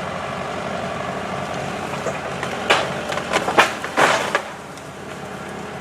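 An engine running steadily, then a run of sharp cracks and snaps about three to four seconds in as a tractor grapple bucket works at breaking a fallen oak trunk in two.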